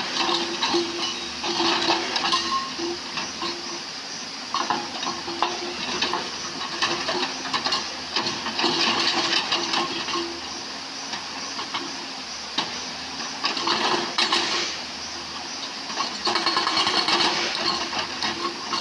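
JCB excavator working among rocks in a stony stream bed: a steady engine hum under the clatter and scrape of stones, which swells and fades in spells.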